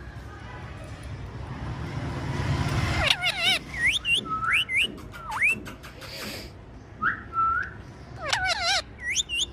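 Indian ringneck parrot whistling: a run of short rising swoops, wavering trilled notes and one brief held note, starting about three seconds in. Before that, a rushing noise grows steadily louder and stops abruptly.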